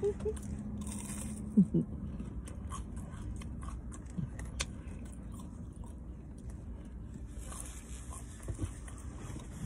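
A person chewing fried food close to the microphone: soft, irregular mouth clicks and small crunches, with a short hum of voice in the first couple of seconds.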